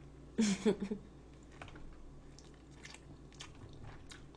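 Close-up chewing of a mouthful of food, with faint wet clicks and ticks from the mouth. A brief voiced sound from the eater, such as a short hum or word, comes about half a second in and is the loudest part.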